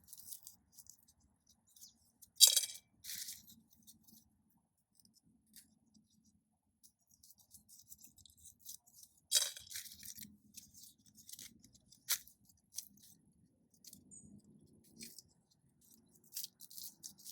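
Dry black bean pods and plants crackling and snapping as they are picked by hand. Irregular small crackles, with a few louder, sharper snaps scattered through.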